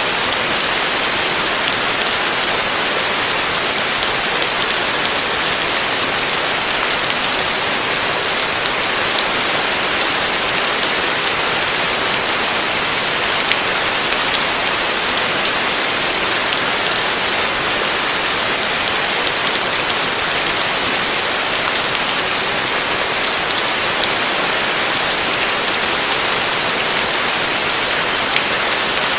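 Heavy rain falling steadily on a roof: a dense, even hiss with fine scattered drop ticks, unchanging throughout.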